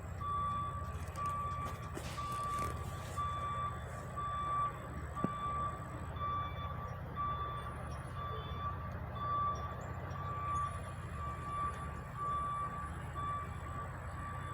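Delivery truck's reversing alarm beeping at an even pace, about two beeps a second, over the low rumble of the truck's engine.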